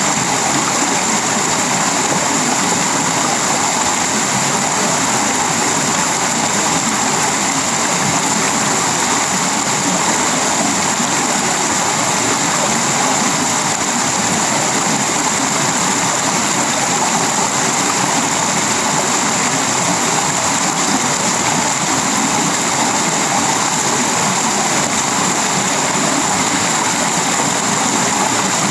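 Tropical rain falling steadily on a sheet-metal roof, wood and leaves: a loud, even hiss with no breaks.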